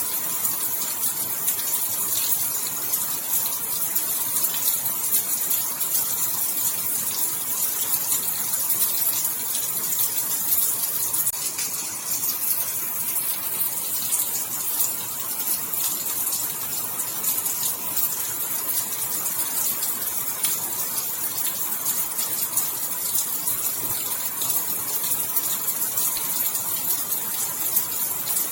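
Steady rain falling, a dense even hiss of many small drops that barely changes.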